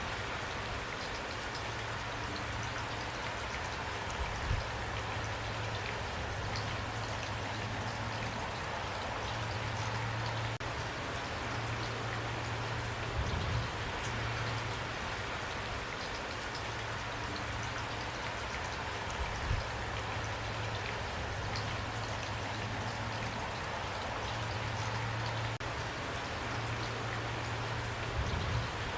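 Steady rain with dense patter of drops on a surface. A low hum sits underneath, fading in and out, and there are a few brief louder moments.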